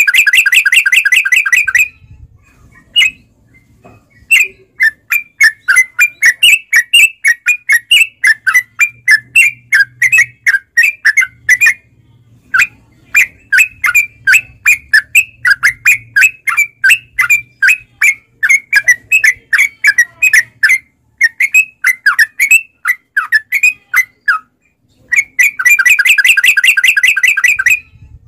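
Trucuk bird (yellow-vented bulbul) calling in long runs of quick, sharp chirps. A dense rattling burst comes at the start and another near the end.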